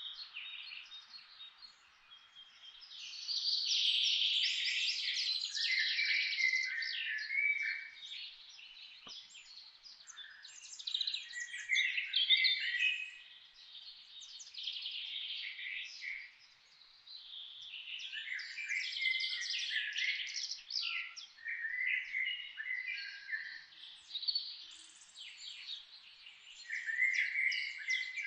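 Forest songbirds singing: several birds in overlapping phrases of rapid, high chirps and trills that come in waves of a few seconds with short lulls between them.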